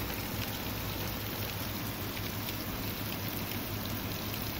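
Steady rain falling in a thunderstorm, a constant hiss with scattered ticks of individual drops landing close by.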